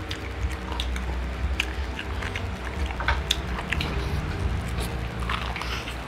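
Close-up crunching and chewing of crispy fried chicken, with many short, sharp crackles over a low steady hum.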